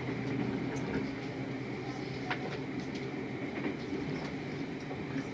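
Steady rumble of a moving train heard from inside a passenger carriage, with a few faint clicks.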